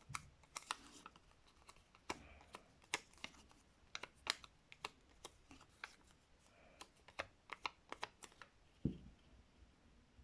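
Faint, irregular light clicks and taps of paper and card being handled and pressed down on a tabletop while gluing, with a duller knock about nine seconds in.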